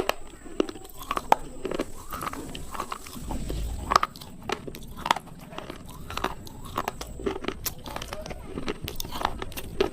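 Slate pencils being bitten and chewed close to the microphone: a dozen or so sharp, crisp crunches and snaps at irregular intervals, with softer grinding between them.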